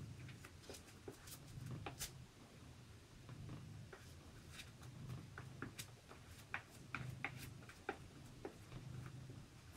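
Faint light scrapes and small clicks of a paintbrush spreading white vinyl glue over a cardboard cutout, with the card handled in the fingers, over a soft low hum.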